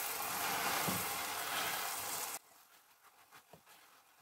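Pineapple slices sizzling in bubbling, caramelizing sugar-and-lemon syrup in a frying pan. The sizzle cuts off suddenly a little past halfway, leaving near silence with a few faint clicks.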